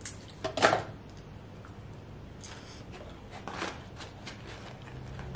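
Crunchy chewing of crispy breaded fried chicken, loudest in a burst about half a second in. A cardboard fry box is handled near the end.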